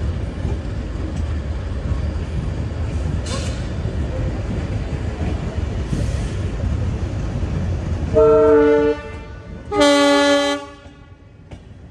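Steady low rumble of a passenger train rolling slowly into a station, then two held blasts of a locomotive horn about a second and a half apart. After the horns the rumble falls away and the sound goes quieter.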